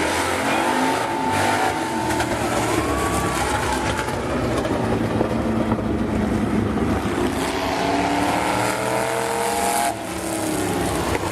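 Several demo race car engines running together on an oval track, their pitches rising and falling as they rev and pass.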